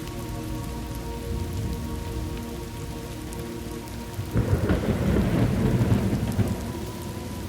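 Steady heavy rain falling, with a roll of thunder rumbling in about halfway through and fading over a couple of seconds.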